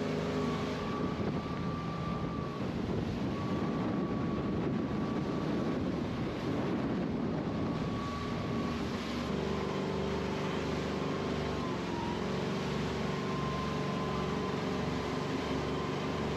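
Motorboat engine running steadily underway, its drone carried over a constant rushing of water and air.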